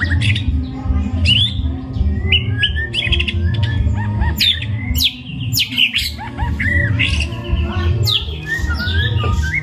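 White-rumped shama singing continuously: a fast, varied run of whistles, rising and falling sweeps and sharp chirps, the full mixed song that shama keepers prize, over a steady low background sound.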